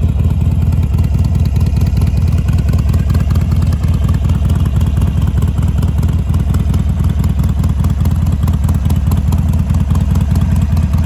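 Harley-Davidson Sportster Iron 883's air-cooled V-twin engine idling steadily, with no revving.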